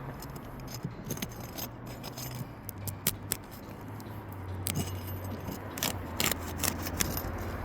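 Scattered sharp clicks, snaps and scrapes of a tool prying up old 3-tab asphalt shingle tabs, breaking their adhesive seals, over a low steady hum.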